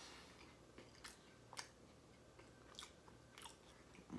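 Quiet chewing of a fried chicken tender, with a handful of faint, brief mouth clicks spread through it.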